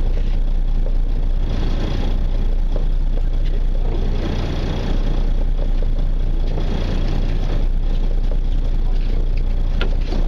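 Fishing boat's engine running steadily, a constant low hum with a wash of noise over it.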